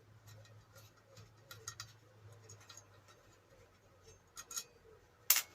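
Scattered small metallic clicks and taps of hand tools working a bolt loose on a bench grinder, with one sharp knock a little after five seconds in.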